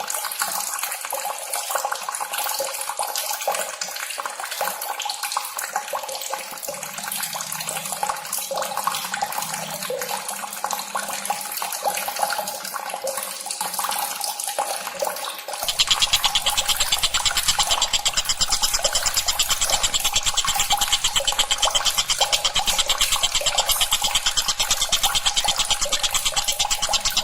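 Tengkek buto (a kingfisher) calls from a bird-training recording: fast, dense, high-pitched chattering. About halfway through it changes to a louder, faster, evenly repeated trill.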